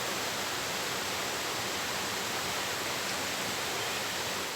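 Steady rush of flowing water from a waterfall.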